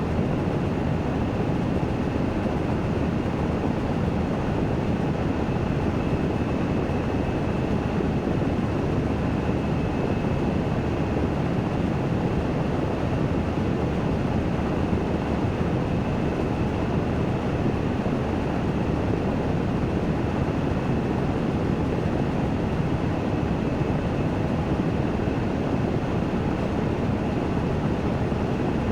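Washing machine in its spin cycle, a steady whirring rush with a faint high whine running through it.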